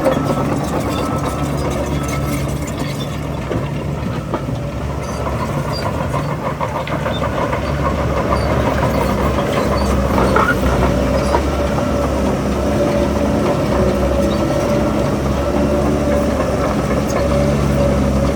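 Shantui DH17 C3 crawler bulldozer working: its diesel engine running steadily under load while its steel tracks clank, getting a little louder about eight seconds in.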